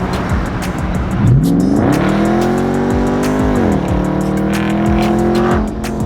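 2019 Dodge Charger Daytona's HEMI V8, exhaust straight through after a mid-muffler and resonator delete, revved: the pitch climbs steeply about a second in, holds, falls back a little before halfway, holds again, then drops near the end. Background music with a steady beat plays along.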